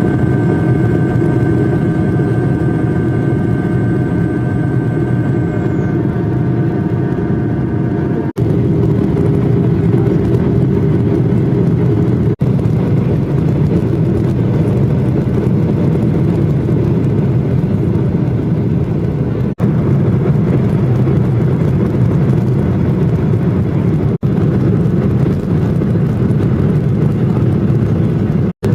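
Airliner cabin noise during approach to landing: a steady rush of jet engines and airflow, with a whine of several tones that fades out about six to eight seconds in. The noise is broken by a few very brief gaps.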